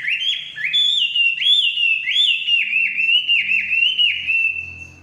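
Chinese hwamei (wambi) singing: a rapid run of loud, clear whistled notes, each sweeping up and then sliding down, which fades away near the end.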